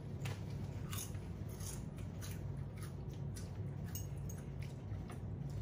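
Potato chips being chewed: a run of short, irregular crisp crunches, over a steady low hum.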